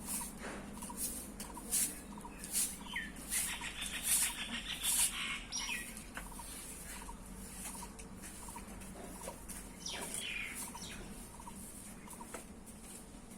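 Birds calling: short peeps repeat evenly, a fast chirping trill comes about three to five seconds in, and a sliding call comes about ten seconds in. Sharp knocks sound through the first half.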